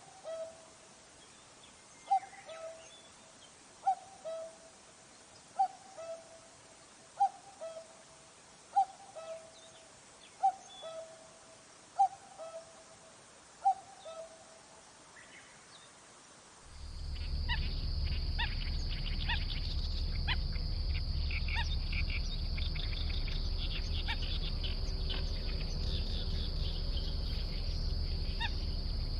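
A bird's two-note call, a higher note dropping to a lower one, repeated nine times about every second and a half to two seconds. About 17 seconds in, it gives way to a busier outdoor recording: a steady high-pitched buzz over a low rumbling noise, with many short bird chirps.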